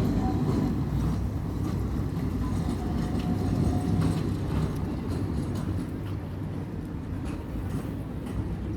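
Tram running on its rails: a steady low rumble with light clicks and a faint thin whine, easing slightly after about six seconds.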